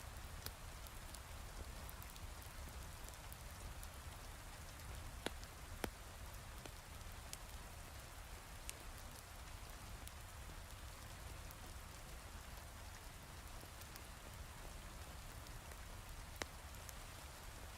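Steady heavy rain, an even hiss. A handful of sharp, isolated pops from a crackling wood fire stand out, a few seconds apart.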